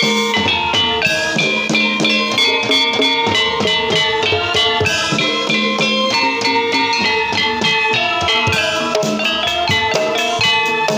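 Javanese ebeg (kuda kepang) dance music: tuned struck percussion playing a fast, busy pattern of ringing metallic notes over drums.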